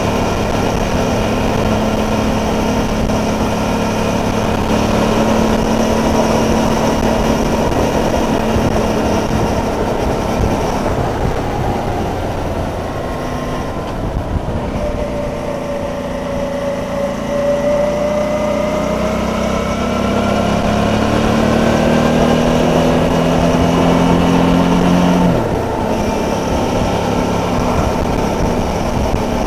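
Suzuki DL650 V-Strom's 645 cc V-twin engine running under way with wind rush, heard from on the bike; the revs ease off about halfway through, then climb steadily and drop suddenly near the end at a gear change.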